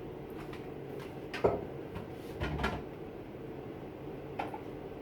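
A few kitchen knocks and clunks: one sharp knock about a second and a half in, a cluster of duller clunks a second later, and a lighter knock near the end, like a cupboard or drawer and kitchenware being handled.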